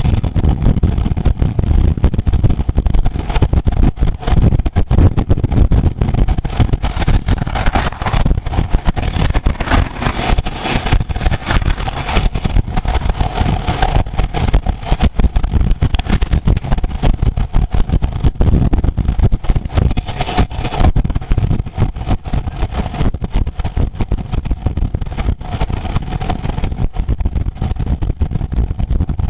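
Heavy wind buffeting on the microphone and road noise while riding fast on a road bicycle, with a faint steady hum under it.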